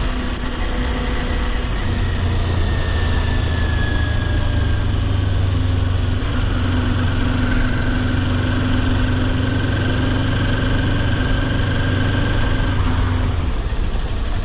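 Kawasaki Ninja 400's parallel-twin engine running steadily under way, with wind rush over it. A steady engine hum and a faint high whine hold through most of it, easing about a second before the end.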